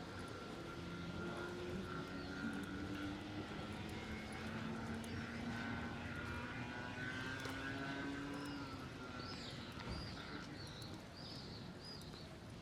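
An engine drones steadily with slowly shifting pitch, fading after about nine seconds, while birds chirp several times near the end.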